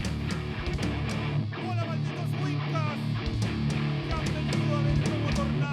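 Heavy metal band playing an instrumental passage: distorted electric guitars and bass holding low notes under steady drum hits, with a lead guitar playing short bending melodic lines.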